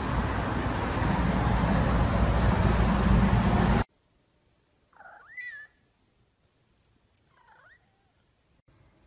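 Hip-hop music that cuts off abruptly about four seconds in, then a tabby-and-white cat meowing twice, the second meow fainter.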